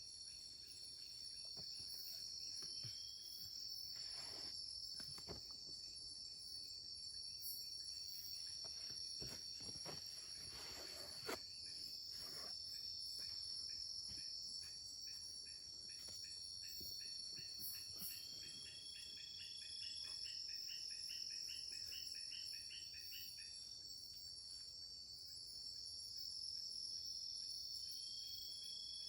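A steady, high-pitched drone from a chorus of rainforest insects. Partway through, a run of about a dozen quick, evenly spaced chirps comes from another animal. A few soft rustles are heard early on and around the middle.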